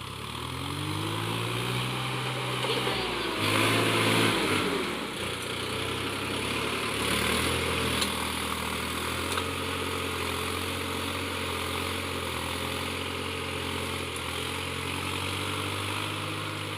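Tractor diesel engine running, its pitch rising and dipping over the first few seconds and loudest about four seconds in, then settling to a steady run.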